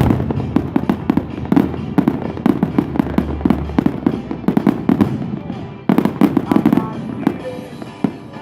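Fireworks display: a dense run of rapid pops and crackles from bursting shells. It thins out, a fresh volley breaks about six seconds in, and it dies away near the end.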